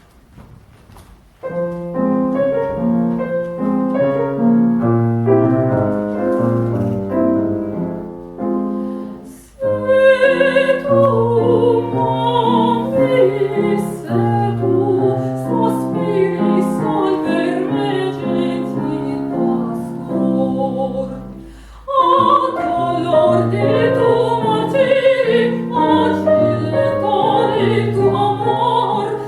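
Classical voice and grand piano: after a quiet moment, the piano begins about a second and a half in, and an operatic female voice sings over it from about ten seconds in.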